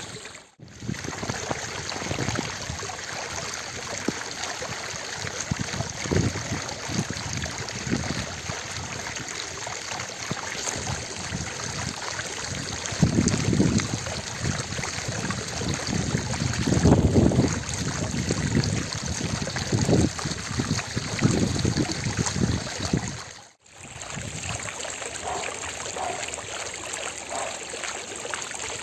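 Ornamental water fountain splashing steadily, falling water making an even rushing hiss. Between about 13 and 22 seconds in, heavier low rumbling surges rise over it, and the sound drops out briefly twice, about half a second in and near the end.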